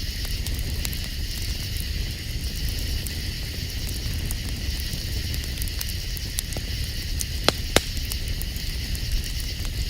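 Wood campfire crackling, with scattered small snaps and two sharp pops about seven and a half seconds in, over a steady high-pitched chorus of night insects.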